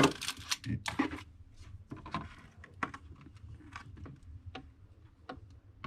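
Food packages and containers being handled in a refrigerator: a string of light clicks and knocks, the loudest at the start and just under a second in, then softer scattered taps.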